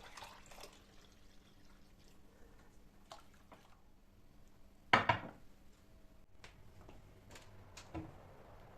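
Quiet household handling noises: a few light clicks, then a sharp double clack about five seconds in and a small thump near the end.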